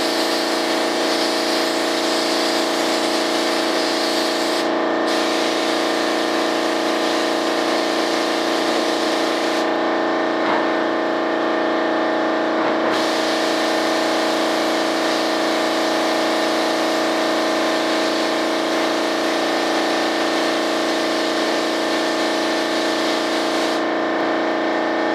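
Spray gun hissing as primer is sprayed, cutting out whenever the trigger is released: briefly about five seconds in, for about three seconds around ten seconds in, and again near the end. Underneath runs a steady mechanical hum with several fixed pitches.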